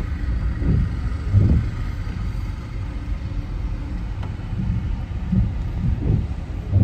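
Car driving along a city road: a steady low rumble of road and engine noise, with a few short low thumps or swells.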